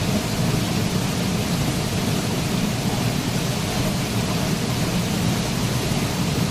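Waterfall: a steady rush of falling water with a deep low rumble.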